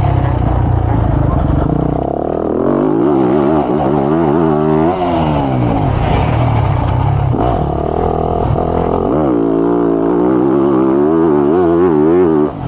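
Motocross bike engine at full throttle, its pitch climbing and falling over and over as the rider works the throttle and gears, with short dips where the throttle is closed.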